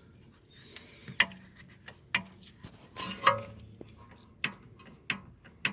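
Rear handbrake mechanism being worked by its cable, giving a series of about seven sharp metallic clicks at uneven intervals of half a second to a second.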